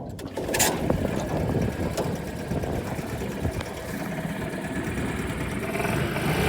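Small 5 hp outboard motor running, a steady low rumble that gets a little louder near the end.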